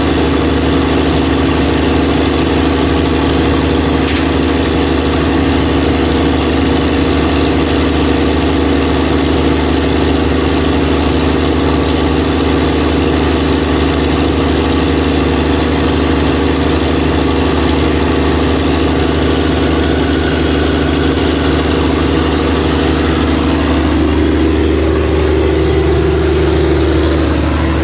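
Open-frame Cummins 400 kVA diesel generator set running steadily at constant speed, with a slight wavering in its note near the end.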